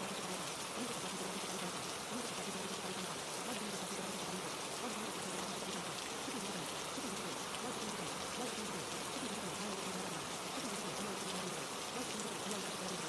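Steady rain recording, an even patter and hiss without pauses, with a faint low voice murmuring underneath.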